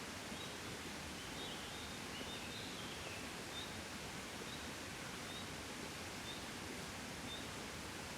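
Steady soft wind hissing and rustling. A faint, short high chirp repeats about once a second throughout, and a brief bird twitter comes about two seconds in.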